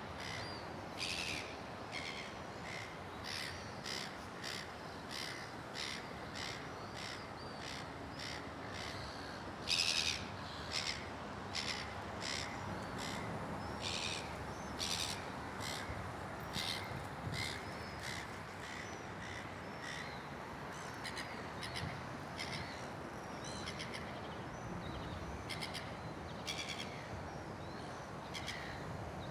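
A gull screaming over and over, short harsh calls at about one a second, loudest about ten seconds in and growing sparser near the end.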